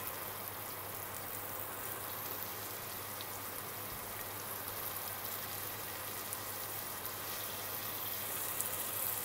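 Diced onion and cumin seeds sizzling in olive oil in a stainless steel pot over low-medium heat, a steady fine crackle that grows a little louder near the end.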